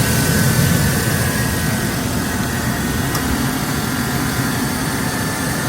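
Chevrolet truck engine idling with the air conditioning running while refrigerant is added on the low side: a steady, even running noise with a faint steady high whine.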